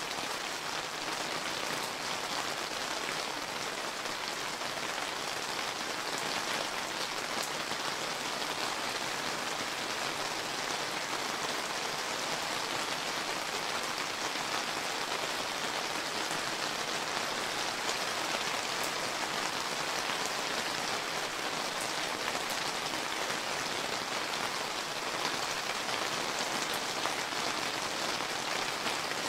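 Steady summer rain falling, a dense even hiss of drops with individual patters on surfaces scattered through it.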